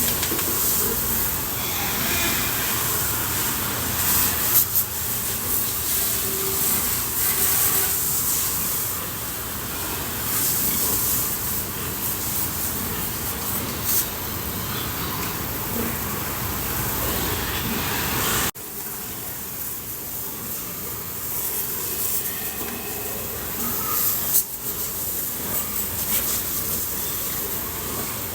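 Water spraying hard from a hose, a steady hiss, with a sudden drop in level about eighteen seconds in.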